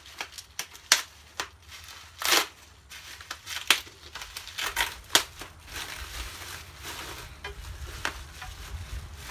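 Packaging rustling and crinkling, with sharp clicks and knocks, as the parts of a tiller hiller-furrower attachment are unpacked and handled. The sounds are busiest in the first half and thin out after about six seconds.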